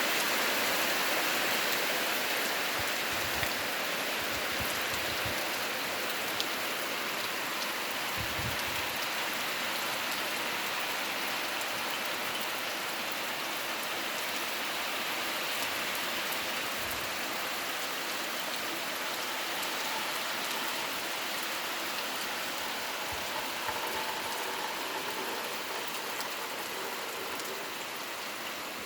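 Heavy rain falling steadily, an even hiss of drops on surfaces, easing slightly near the end.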